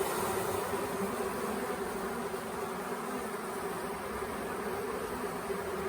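Honeybee swarm buzzing, a steady, even hum of many bees.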